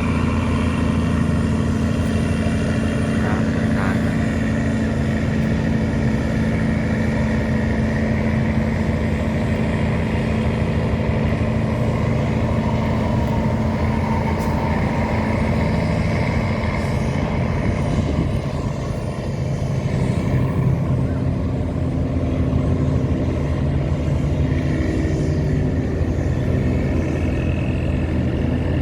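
Tugboat engine running steadily under load while towing heavy cargo barges, a deep, even drone.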